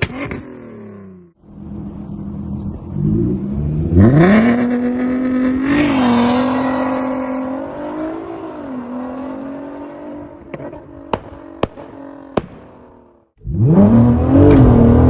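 Tuned VW Golf Mk5 R32's 3.2-litre VR6 engine revving: a few seconds in it climbs steeply and holds high revs for several seconds, then falls away with a handful of sharp crackles and pops on the overrun, the burble tune of a remapped ECU. Near the end it is revved up steeply again.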